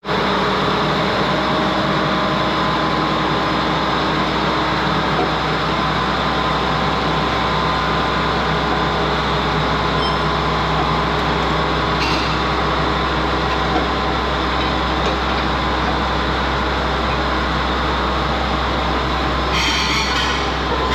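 A machine running steadily, a loud, unchanging mechanical drone that starts suddenly and holds level throughout.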